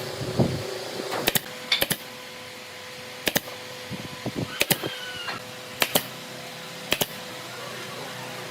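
A series of sharp taps and clicks, about seven of them spread unevenly, several coming in quick pairs, over a faint steady hum.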